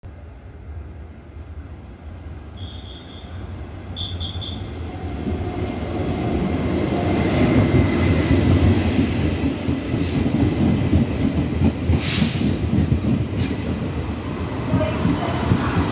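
Taiwan Railway Chu-Kuang express train with manual-door passenger cars approaching and running past along a station platform. It grows louder over the first eight seconds into a steady rumble of wheels on rail. A few short high beeps sound about three and four seconds in, and two brief bursts of hiss about ten and twelve seconds in.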